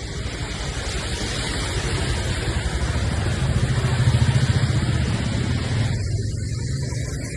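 Motor vehicle engine running, getting louder until about four seconds in and then easing, over a steady hiss that fades out about six seconds in.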